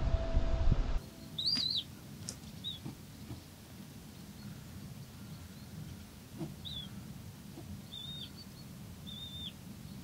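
Background music cuts off about a second in. After that a small bird gives about six short, high chirps, each a quick arched note, spaced irregularly over quiet outdoor ambience.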